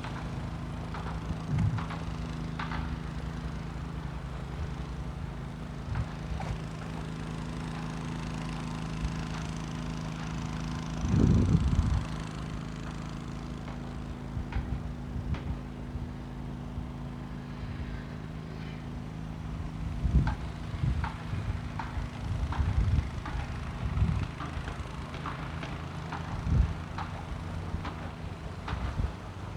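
Outdoor ambience: a steady low hum with scattered short knocks and thumps, the loudest a low burst about eleven seconds in and a run of them near the end.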